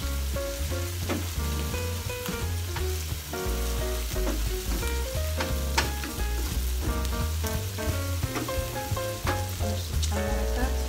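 Chopped onion and garlic with berbere sizzling in a frying pan while a bamboo spatula stirs and scrapes them, with a few sharp knocks of the spatula on the pan. Background music with a steady bass plays under it.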